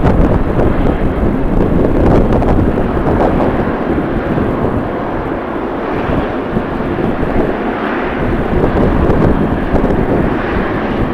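Jet airliner engine noise, steady and loud, with strong wind buffeting the microphone.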